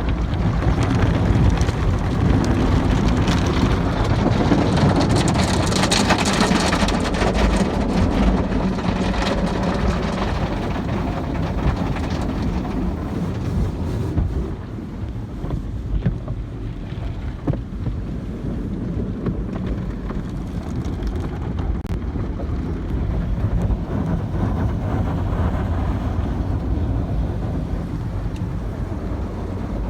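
Automatic car wash running: a steady rush of water spray and machinery, loudest in the first half and easing off about fourteen seconds in.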